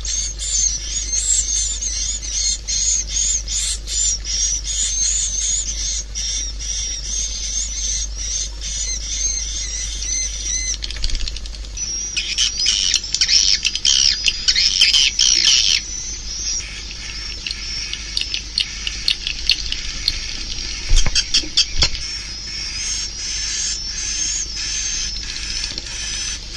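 Swiftlet calls: rapid high chirping trills mixed with dry clicking, with a denser burst of chattering about halfway through, over a steady low hum.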